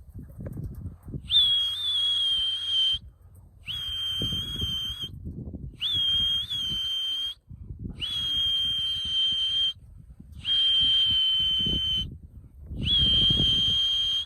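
A whistle blown in six long, steady, high blasts, each lasting about one and a half seconds with a short pause between them, the last still sounding at the end. This is a pigeon keeper's call to bring racing pigeons in to the loft.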